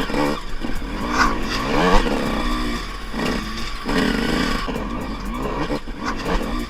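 Off-road vehicle engine running under riding load, revving up and down repeatedly.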